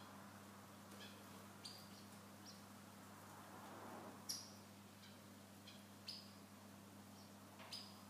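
Small cage birds giving short, high chirps now and then, faint, the loudest about halfway through and near the end, over a low steady hum.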